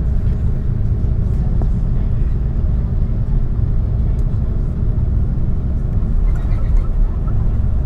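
Cabin noise inside an Airbus A330 airliner taxiing: a steady low rumble from the engines at taxi power and the rolling gear, with a constant hum underneath.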